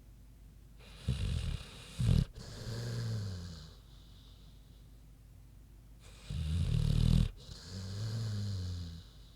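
American bulldog snoring in her sleep: two breaths, each a loud, rough snore on the in-breath followed by a softer, humming out-breath that drops in pitch at the end.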